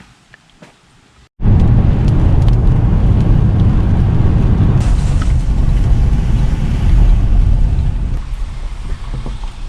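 Rainstorm noise on the microphone: a loud, low rushing rumble that cuts in abruptly about a second and a half in and dies away near the end.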